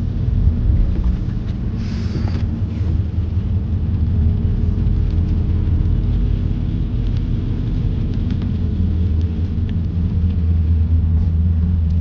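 Road noise inside a moving van's cabin: a steady low rumble from the engine and tyres, with a brief hiss about two seconds in.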